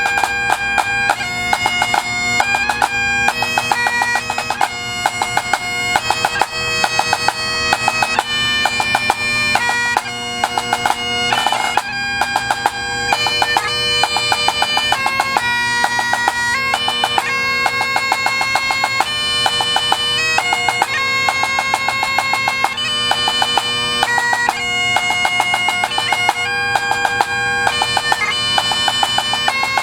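Bagpipes playing a tune over steady drones, the melody broken by quick grace notes.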